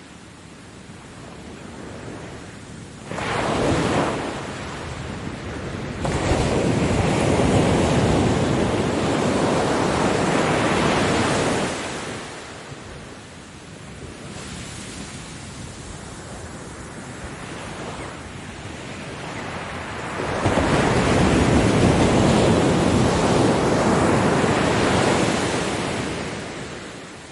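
Ocean waves breaking on a beach. A short surge comes about three seconds in, then two long, loud waves wash in, each lasting about six seconds, with a lower steady surf hiss between them. The second wave fades away near the end.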